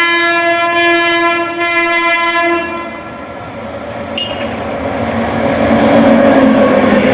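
Train horn held in one long steady blast that cuts off about three seconds in, followed by the rumble of the train running past, growing louder toward the end.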